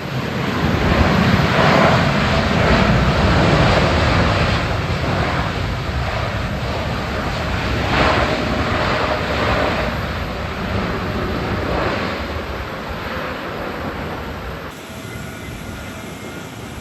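Jet engines of a Boeing 747-8 Freighter landing in strong wind, with wind buffeting the microphone. The noise swells over the first few seconds and again about eight seconds in, then drops sharply near the end.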